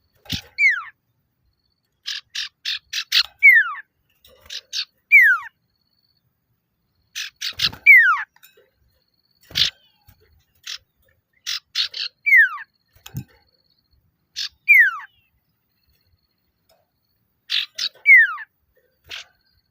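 Male common iora (sirtu/cipoh) giving its challenge call to a rival: short runs of quick chattering notes, each phrase ending in a clear whistle that slides downward, repeated over and over. A few faint low knocks come between the phrases.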